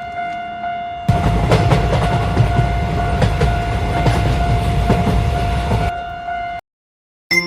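Train passing: a low rumble with the clickety-clack of wheels over rail joints, starting about a second in and stopping near the end, over a steady high tone. Everything cuts off abruptly shortly before the end.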